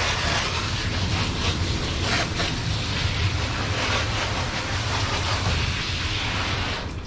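Water spraying steadily from a dog-wash hose, over a low hum; the spray cuts off near the end.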